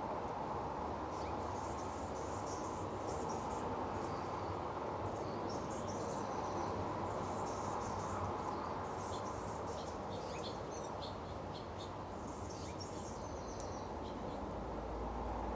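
Small birds chirping repeatedly over a steady rush of running water from a bird-bath fountain.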